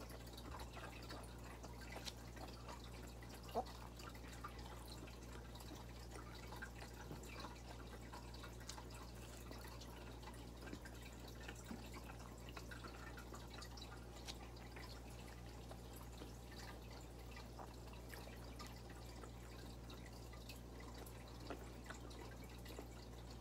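Faint chewing and mouth sounds of someone eating by hand: soft wet clicks and smacks scattered through, one sharper click a few seconds in, over a steady low hum.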